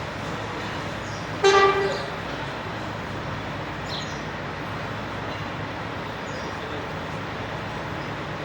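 A vehicle horn gives one short toot about one and a half seconds in, over a steady background hum of noise.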